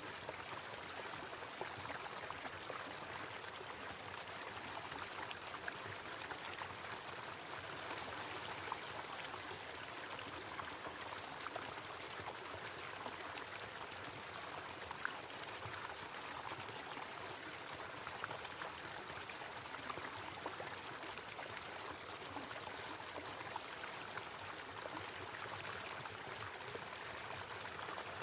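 Small waterfall running steadily: an even rush of falling water with small splashes scattered through it.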